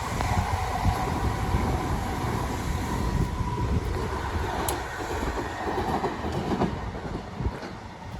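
Rail vehicle running along the track, a steady rumble with a thin whine over it in the first half, growing quieter toward the end as it moves away.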